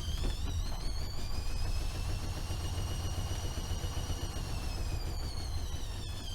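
AEG Öko-Lavamat 76730 washing machine spinning its drum at speed: a high motor whine over a low rumble and the churn of the drum. The whine holds steady and sinks slightly after about five seconds as the spin eases.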